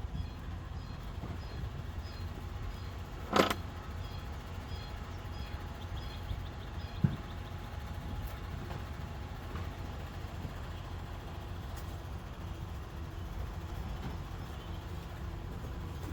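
Heavy vehicle engine running steadily at idle as a low rumble, with a loud bang about three and a half seconds in and a short sharp knock about seven seconds in.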